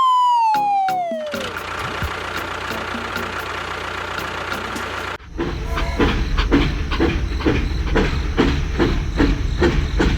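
A falling whistle slides down in pitch over the first second and a half, followed by a steady noise. About five seconds in it cuts off and is replaced by an engine-like rumble with a regular pulse, two or three beats a second.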